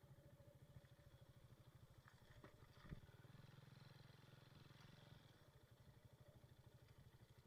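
Faint, steady low pulsing hum like a small engine running, with a single short click about three seconds in.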